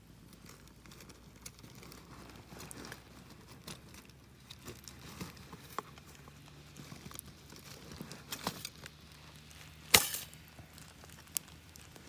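Campfire crackling with scattered small pops, and one loud sharp pop about ten seconds in, followed by a smaller one.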